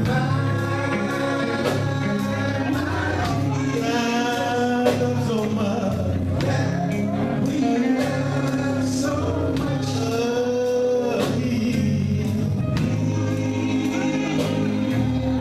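Gospel vocal group singing in harmony over a live band, with a heavy bass line and steady drum hits.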